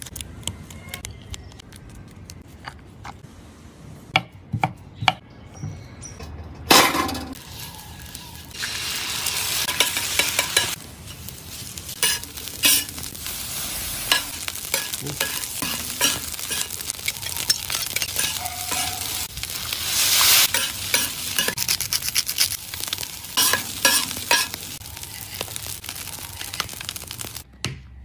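Food sizzling on a hot flat-top griddle while a metal spatula scrapes and taps the surface as egg and other ingredients are stir-fried. For about the first seven seconds there are only quieter scattered clicks and scrapes, then the loud sizzling starts and goes on until just before the end.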